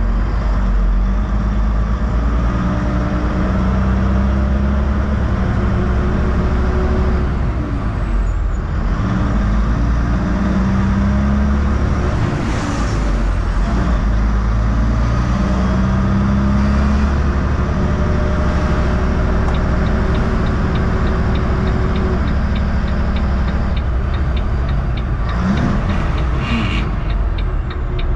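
Heavy truck engine and road noise from a 2006 Volvo 880 tractor under way, a steady low drone whose pitch steps up and down a few times. A regular ticking joins in during the last third.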